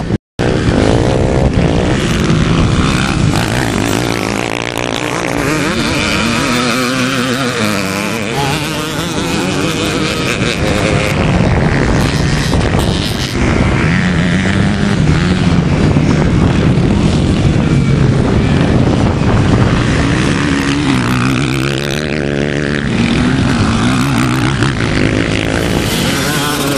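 Vintage ČZ two-stroke motocross motorcycles running on the track, their engines revving up and falling back again and again as the bikes accelerate and pass. The sound cuts out for a split second just after the start.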